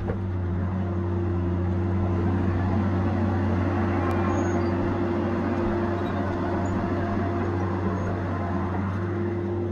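Tigercat 870C feller buncher's diesel engine running steadily, a constant low hum with a broad mechanical rush on top that swells slightly about a second in.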